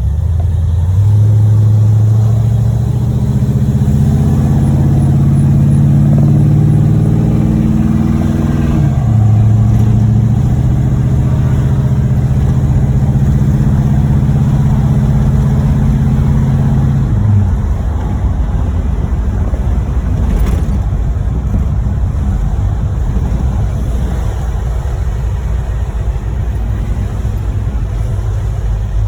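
1986 Chevrolet Monte Carlo SS's V8 accelerating hard, its pitch rising, dropping at a gearchange about nine seconds in, then rising again. About seventeen seconds in, it eases off into a steady road rumble. The engine has a bottom-end rod knock.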